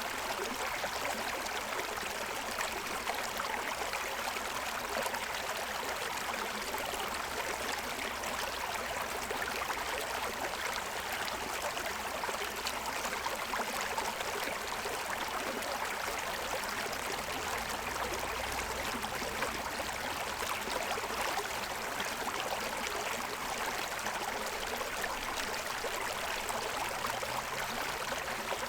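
Forest stream running over the stones of its bed, a steady rushing and babbling of water.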